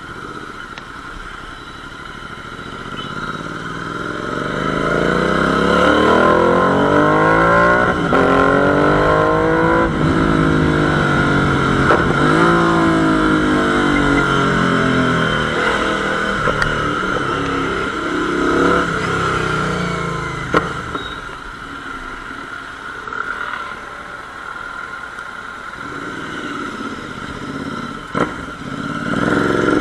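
Royal Enfield Interceptor 650's parallel-twin engine through an SS Moto full-system aftermarket exhaust, revving: the pitch climbs and falls several times. It is loudest through the middle and eases off later, with a couple of brief sharp cracks near the end.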